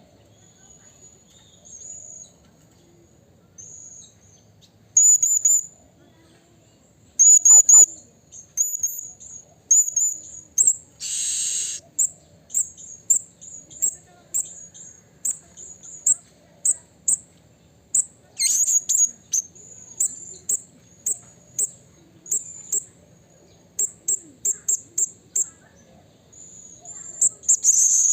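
Blue-crowned hanging parrot (serindit) calling: short, very high, thin notes repeated in irregular runs. There is one harsher, rasping note about eleven seconds in and quicker strings of notes later on.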